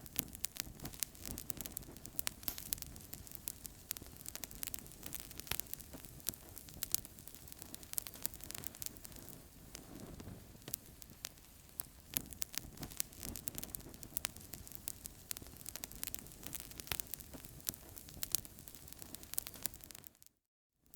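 Wood fire crackling in a fireplace: frequent sharp pops and snaps over a low rushing of flames. The sound cuts out for about half a second near the end, then resumes.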